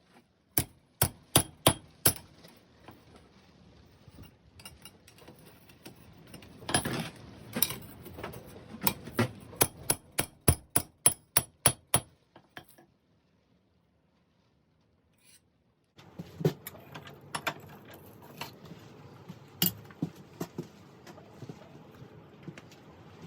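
Hammer blows on hot 5160 steel at the anvil, each strike sharp and ringing, in two runs of about two to three blows a second. After a short break comes a low steady hum with a few scattered lighter knocks.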